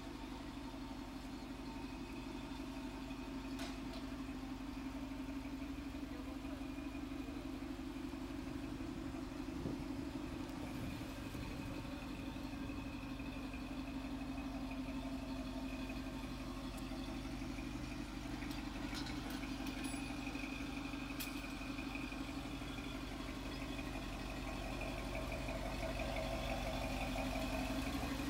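A vehicle engine idling steadily, a little louder near the end.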